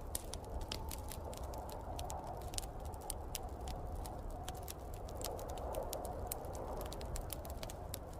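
Wood fire crackling, with many small irregular pops, over a steady rushing wind of a snowstorm.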